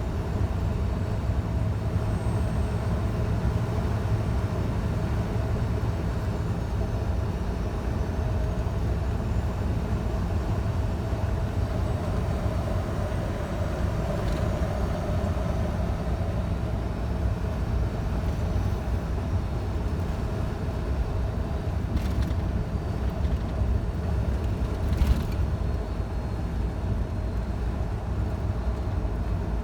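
Scania truck driving at steady speed: an even engine drone with road and tyre rumble. Two short clicks sound near the end.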